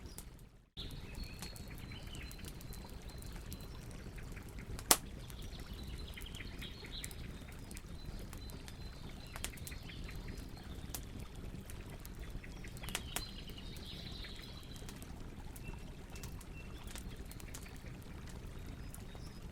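Campfire crackling: a steady low rumble of burning wood with scattered pops and one loud snap about five seconds in. Birds chirp faintly now and then, and the sound drops out briefly just under a second in.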